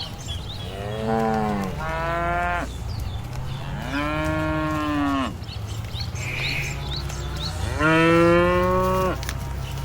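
Cattle mooing: four calls, two short ones in quick succession, then two longer, drawn-out moos about four and eight seconds in.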